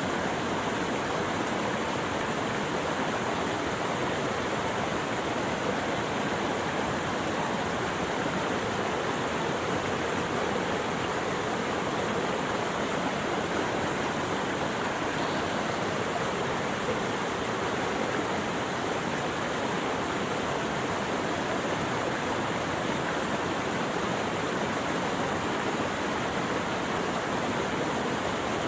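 Steady, unbroken rushing of flowing water, like a stream or small waterfall, with no change in level.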